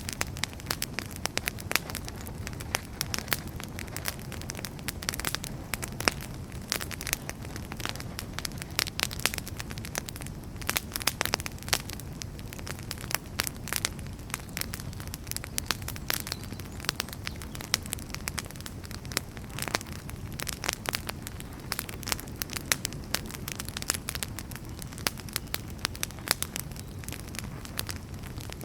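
Burning firewood crackling: a steady low rumble of the fire with frequent, irregular sharp pops and snaps.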